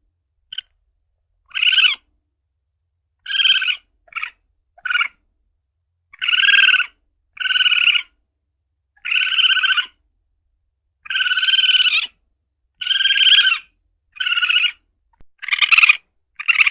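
Asian palm civet (luwak) calling: about a dozen short, high, pitched calls, each under a second and some clipped short, repeating every one to two seconds with silence between.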